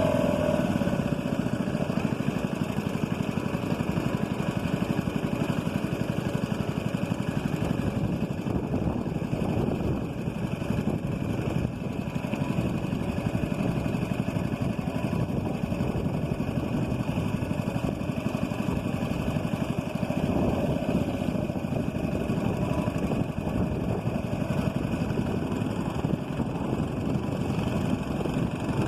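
Small boat engine running steadily at a constant speed, its low drone unbroken throughout.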